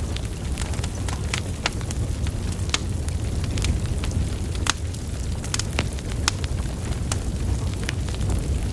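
Wood fire burning: a steady low rumble of flames with irregular sharp crackles and pops from the burning logs, a dozen or so, the loudest about halfway through.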